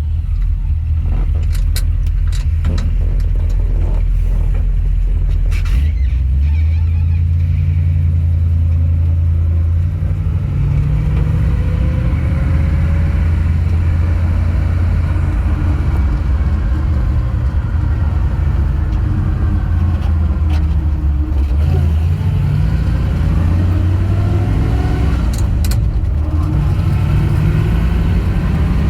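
1962 Dodge D-series truck's engine running while driving, a steady low drone whose pitch shifts a few times as engine speed changes, with a few short clicks and rattles.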